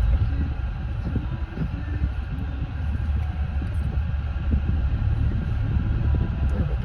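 A car running at low speed, with a steady low rumble of engine and road noise.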